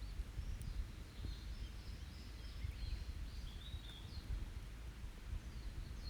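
Wild birds chirping and calling in short phrases over the low, uneven rumble of an open wood campfire burning.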